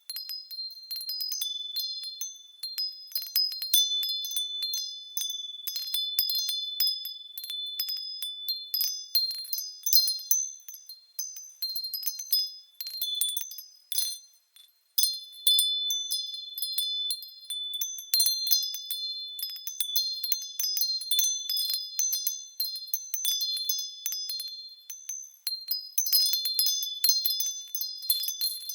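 Japanese furin wind chimes ringing as the wind stirs them: several high, clear tones struck irregularly and overlapping, falling quiet for a moment about halfway through.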